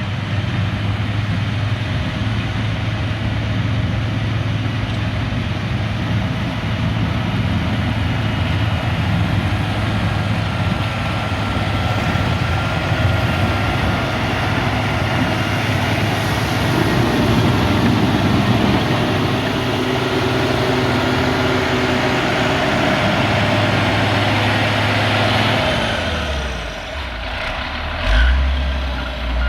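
The diesel engine of a CAT 140G motor grader runs steadily under working load. Near the end the engine note drops and a deeper low hum takes over.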